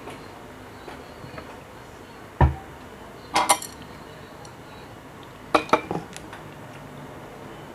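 Eating utensils clattering against dishes: a dull knock about two and a half seconds in, then two short runs of sharp clinks, near three and a half and five and a half seconds in.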